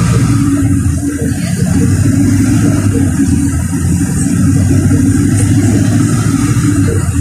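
LiAZ 4292 city bus's diesel engine running with a steady low drone, over road noise, heard from on board the bus.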